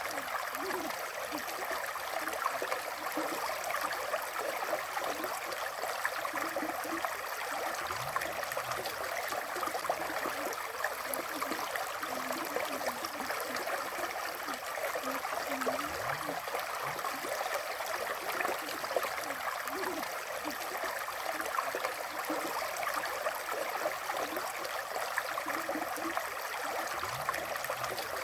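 River water flowing steadily, an even rushing with many small gurgles running through it.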